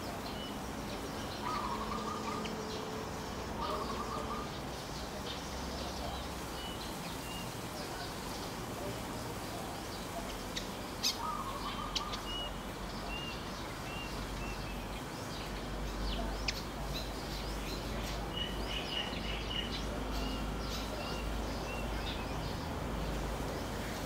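Wild birds calling over a steady background hiss: a few short low calls, and runs of quick, high chirps in the middle and later part, with a couple of sharp clicks near the middle.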